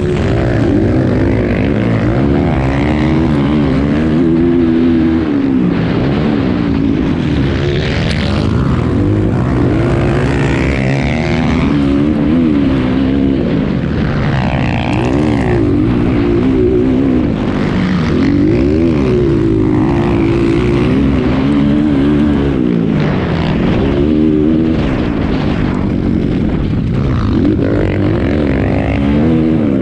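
Dirt bike engine revving hard, its pitch climbing and dropping back every second or two as the throttle is worked on and off.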